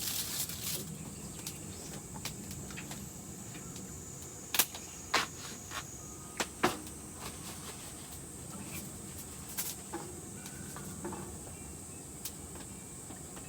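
Wood campfire crackling: scattered sharp pops and snaps over a low hiss, with a few louder pops near the middle.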